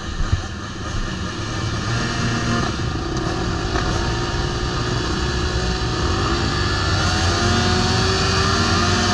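Several motocross bike engines running together at the start line, idling and blipped, with revs rising toward the end. A short knock just after the start.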